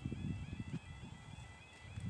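Level crossing alarm sounding, a quick, evenly repeating pattern of short high sweeping tones, half-buried under wind buffeting on the microphone, which is the loudest sound.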